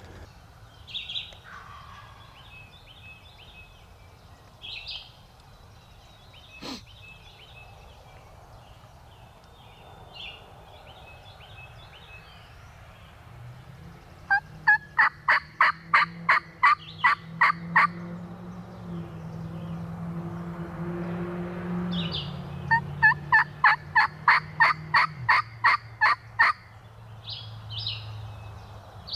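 Two loud series of turkey yelps, each about three to four seconds long at roughly four notes a second, the second starting about eight seconds after the first. Faint small-bird chirps come before them, and a low steady drone runs under the second half.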